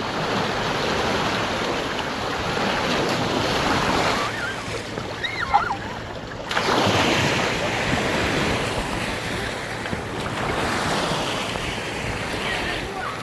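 Sea waves breaking and washing up on a beach in a continuous rushing surge, swelling and easing with each wave, with wind buffeting the microphone.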